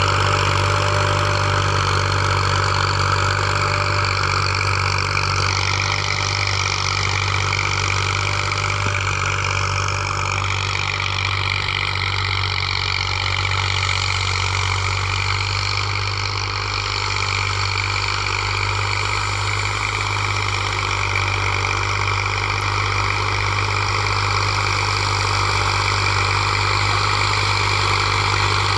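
Massey Ferguson tractor's diesel engine running steadily at a constant, near-idle speed, with a deep even hum.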